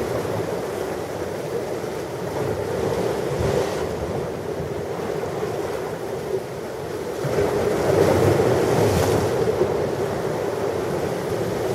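Ocean surf: waves breaking and washing on the shore in a steady rushing wash, which swells louder about three-quarters of the way through as a larger wave comes in.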